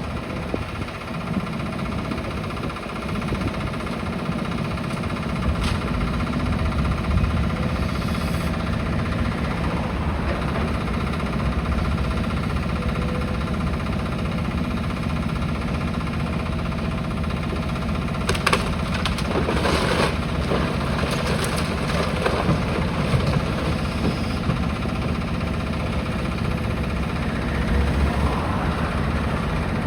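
Demolition excavator's diesel engine running steadily, with a cluster of cracks and clatters of breaking rubble about two-thirds of the way through.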